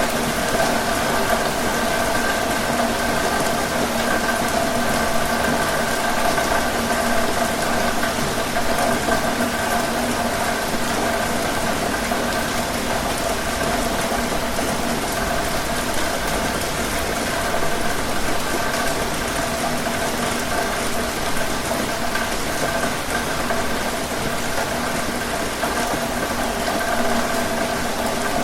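Steady heavy rain, with a steady mechanical hum like an idling motor running underneath it.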